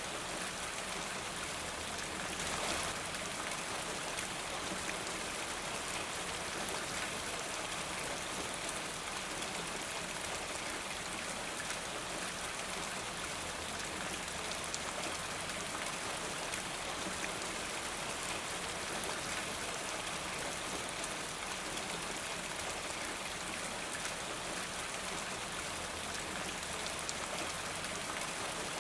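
Steady rain falling, a dense even hiss of drops, with a brief louder swell about two and a half seconds in.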